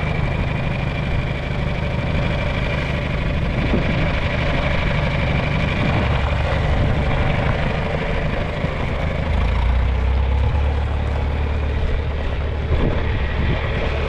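John Deere farm tractor engine running steadily as the tractor is driven, its low rumble growing deeper and stronger about two-thirds of the way through.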